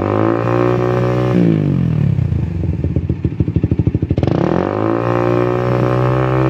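Suzuki GSX-R150 single-cylinder four-stroke engine through an SJ 88 racing exhaust muffler, revved up and held, dropped back to a pulsing idle, then revved up again about four seconds in and held high.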